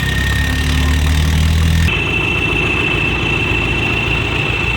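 Tractor's diesel engine running steadily. About two seconds in the sound changes abruptly, and a steady high whine continues over the engine.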